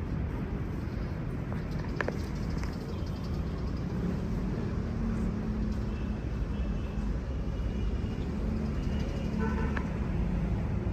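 Street traffic: a steady low rumble of passing vehicles, with an engine hum joining about four seconds in and a single sharp click about two seconds in.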